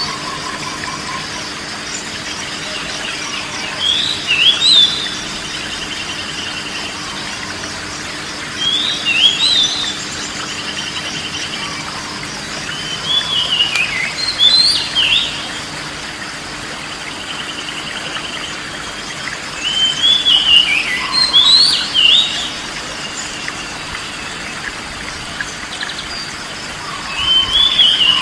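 Recorded songbird song: short whistled phrases sliding up and down, heard five times about every six seconds, a few followed by a faint quick trill, over a steady background hiss.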